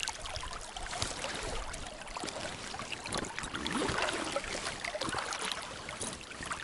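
River water running steadily, with scattered small clicks and rustles over it.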